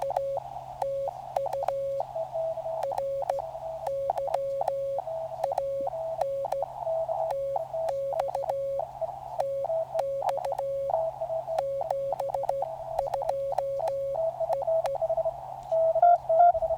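Morse code (CW) heard through a portable QRP transceiver: two keyed tones at slightly different pitches overlap, two stations sending at once. Scattered faint static clicks and a steady low hum run underneath.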